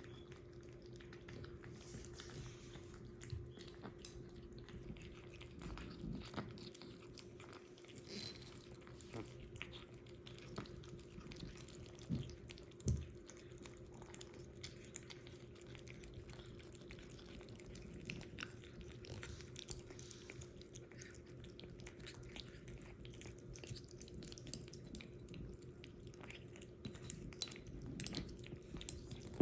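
A kitten eating: many faint, quick little clicks from its mouth, with a couple of louder knocks about twelve and thirteen seconds in.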